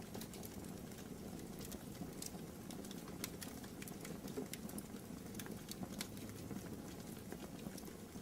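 Wood fire crackling in a fireplace: irregular sharp pops and ticks over a soft, steady rush of burning.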